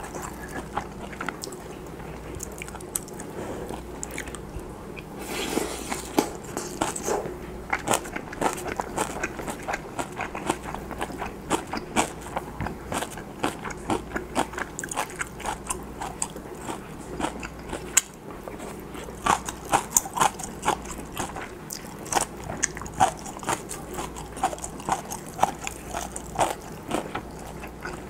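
Close-miked eating sounds of a person chewing rice, stir-fried kimchi and pan-fried Spam: a steady run of wet smacking clicks and soft crunches from the mouth. The clicks grow sharper and louder in the second half.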